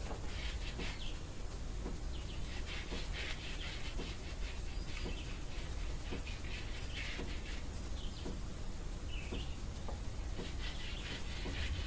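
Small birds chirping on and off, over a steady low rumble.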